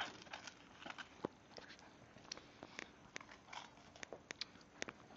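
Dogs biting and chewing ice cream cones: faint, irregular crunches and clicks.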